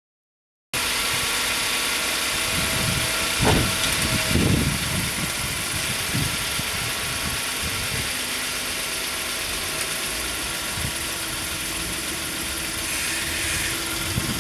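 A car engine idling steadily, cutting in abruptly about a second in, with a couple of brief louder bumps a few seconds in.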